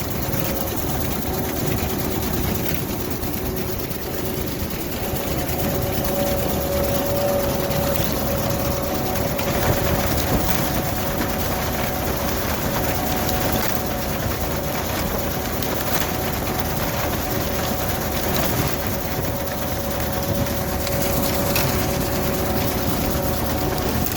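Vintage farm tractor engine running steadily under load while towing a Massey binder cutting and binding corn, with the binder's mechanism working along with it.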